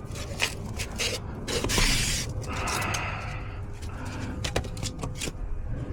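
Scattered sharp clicks, taps and rustling from hands and tools working on an HVAC zone control board, with a couple of brief scraping or rustling passages in the first half.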